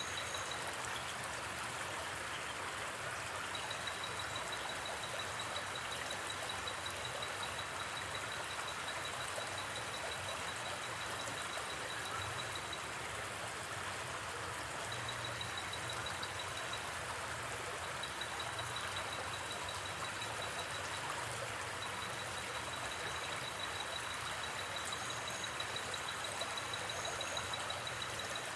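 Gently flowing river running steadily. A rapid, high-pitched insect trill from the night forest comes and goes in long stretches.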